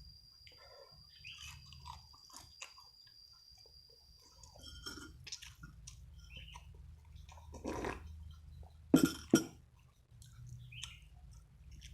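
Close-up eating sounds: a person chewing and biting food with small wet clicks. There is a louder burst about two-thirds of the way in, then two sharp, loud snaps in quick succession about three quarters of the way through.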